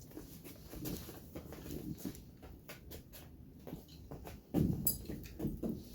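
A dog's nails clicking and pattering on a hard floor as it moves about, with a louder rustling thump about four and a half seconds in.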